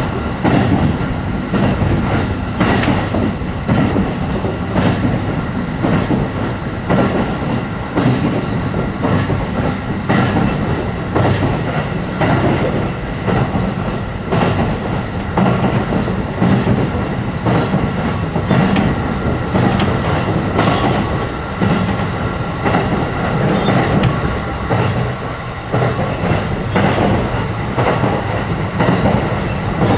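Interior of a JR E531 series electric train running between stations: a steady rumble of wheels on the rails with repeated clicks over the rail joints and a few steady tones above it.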